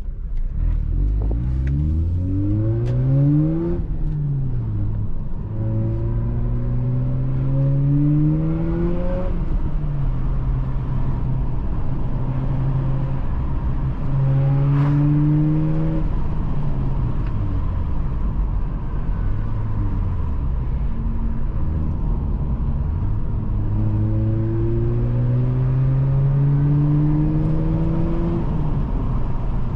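Mazda RX-8's two-rotor Wankel rotary engine through a Re Amemiya aftermarket exhaust, revving up hard and dropping again several times as the car accelerates, shifts and lifts off.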